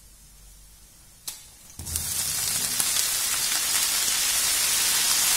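Broccoli florets going into hot butter, olive oil and garlic in a stainless steel frying pan. After a faint sizzle and a sharp click about a second in, a loud, steady sizzle starts up and keeps building slightly.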